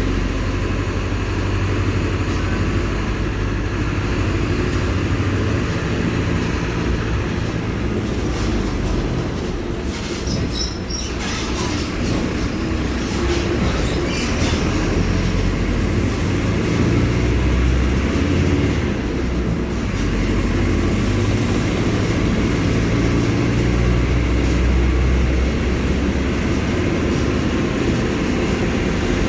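Mercedes-Benz OF-1721 BlueTec 5 bus's six-cylinder diesel engine running with a steady, loud rumble whose low tone rises and falls. There is a brief burst of hissy noise about ten seconds in.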